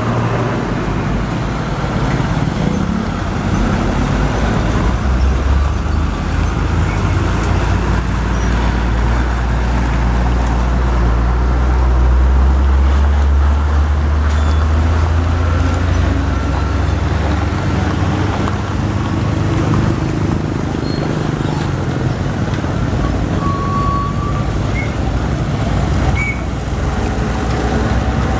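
Heavy trucks on the road, with continuous traffic noise. A deep engine drone swells about five seconds in, stays strong for around ten seconds and then fades.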